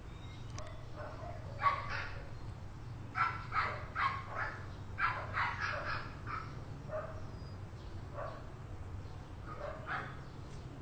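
Dog barking in irregular runs of short, sharp barks, over a steady low hum.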